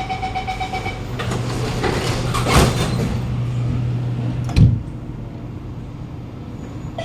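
Passenger doors of a Kawasaki Nippon Sharyo C751B train closing. A rapid beeping door-closing warning sounds for the first second. The doors slide shut with a loud rush about two and a half seconds in, and a heavy thump follows about four and a half seconds in. A steady low hum from the standing train runs underneath.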